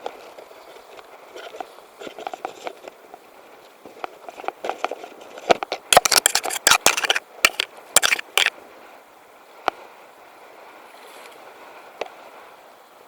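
A flurry of sharp clattering knocks and scrapes of hard objects, thickest and loudest through the middle, with a few single clicks before and after, over a steady hiss of wind and water.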